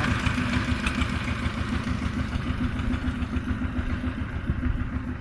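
Power tiller engine running steadily with a rapid, even low beat.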